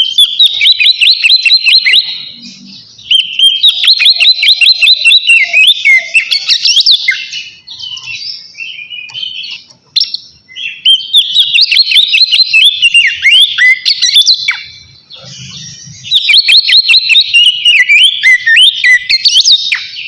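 Oriental magpie-robin singing its loud, open "ngeplong" song: bursts of rapid, varied whistled notes a few seconds long, separated by short pauses. This is the challenging song of a male calling out a rival.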